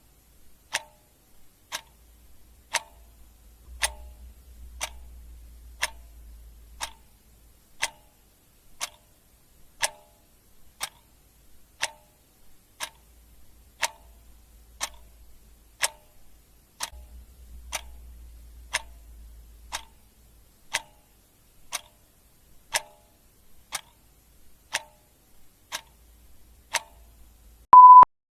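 Clock ticking steadily about once a second, with one short, loud beep near the end.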